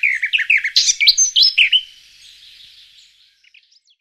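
A bird chirping and twittering in quick, overlapping calls, busiest over the first two seconds, then thinning and fading out before the end.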